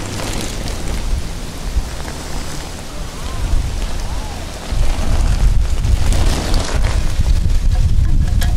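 Rain falling with wind gusting over the microphone, a hiss with a deep, unsteady rumble that gets louder about five seconds in.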